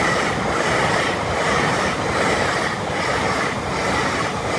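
A train passing close by at speed: a loud, steady rush of noise that swells and eases a little under once a second.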